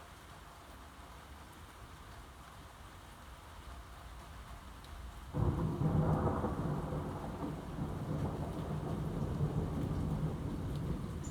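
Steady rain falling, then about five seconds in a sudden crack of thunder that rolls on as a long, deep rumble.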